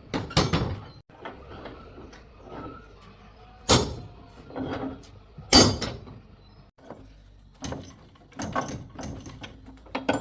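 Irregular scraping and clatter of hard objects being handled, with two sharp, loud knocks a couple of seconds apart near the middle.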